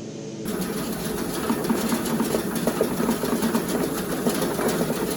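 Motorized machine running with a dense, rapid mechanical clatter, starting abruptly about half a second in.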